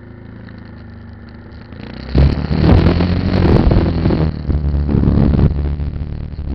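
Motorcycle engine running low and steady, then about two seconds in it picks up and the ride is filled with a loud rushing noise over the engine, easing briefly partway through.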